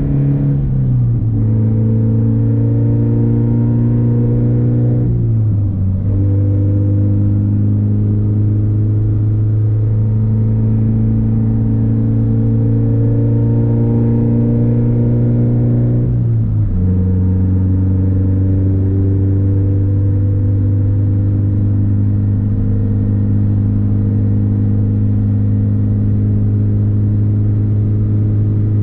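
Scion FR-S flat-four engine droning steadily through a straight-through exhaust with muffler and resonator deleted, while the car is driven at a steady pace. Three times the pitch drops sharply and then settles again, as with gear changes.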